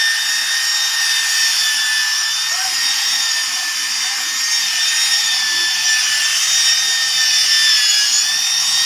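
Handheld electric power tool running steadily while sanding a synthetic solid-surface tabletop: a high motor whine over the hiss of the abrasive on the surface. The whine sags briefly in pitch near the end.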